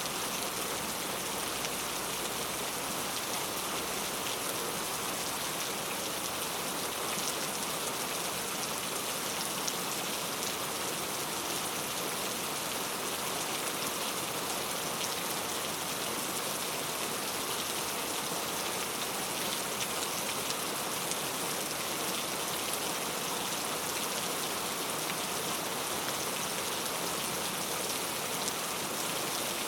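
Steady rainfall: an even hiss of raindrops pattering on surfaces, with fine scattered drop ticks.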